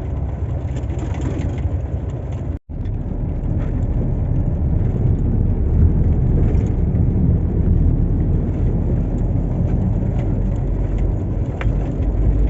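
Inside the cab of a Shacman truck driving on a snowy, rutted road: a steady diesel engine drone and road rumble, with a few light rattles. The sound cuts out for a split second about two and a half seconds in.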